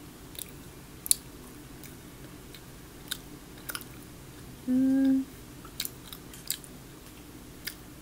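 A person chewing a soft piece of chocolate nougat, with sharp wet mouth clicks and smacks every second or so. About five seconds in comes a short hummed "mm", the loudest sound here.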